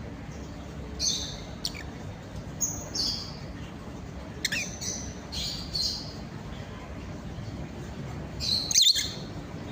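Pet parrots giving scattered short chirps and squawks, about one every second or so, with a louder burst of calls near the end, over a steady low background noise.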